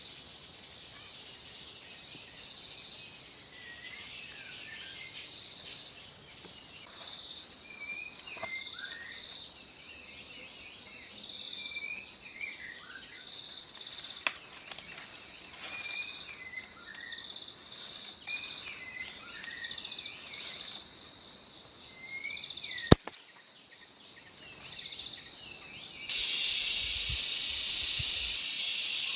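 Forest ambience: insects trilling steadily in even pulses, with birds giving short chirps over them and two sharp clicks. About 26 seconds in, a much louder steady hiss cuts in abruptly and takes over.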